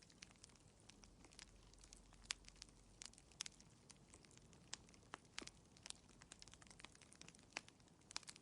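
Wood fire crackling faintly in a fireplace: irregular sharp snaps and pops, a few a second, over a soft low hiss.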